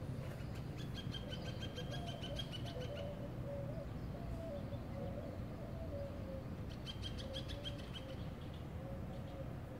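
A bird's rapid chattering call, heard twice, once in the first few seconds and again near the end, with a lower wavering call in between. Under it runs a steady low rumble of wind on the microphone.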